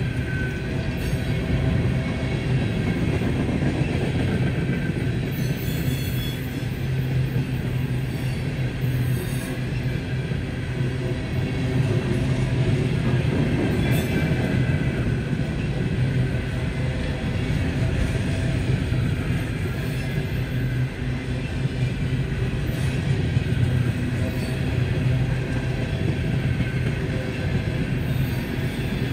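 Freight train rolling past with a steady rumble.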